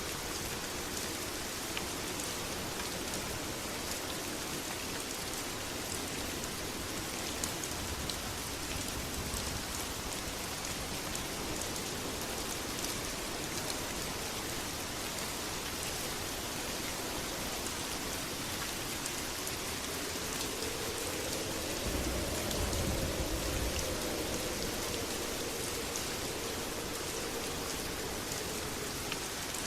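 Steady heavy rain with dense patter. About twenty-one seconds in, a low rumble swells for a few seconds and then fades.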